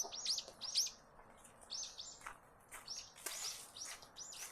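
Small songbird chirping: quick runs of short, high chirps with brief pauses between them, fairly faint.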